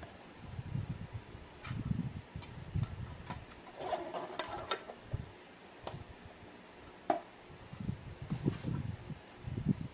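Handling noises: irregular soft thumps and rubbing, with a few sharp clicks and a short crinkle of packaging about four seconds in.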